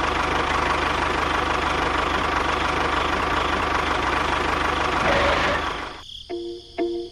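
Small motor running steadily with a fast, even rattle, winding down and stopping about five and a half seconds in. Plucked-string music begins just after.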